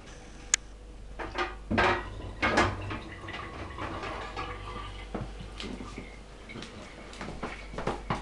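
Persian cat drinking water, irregular wet splashes and laps, with two louder splashes about two seconds in followed by smaller uneven ones.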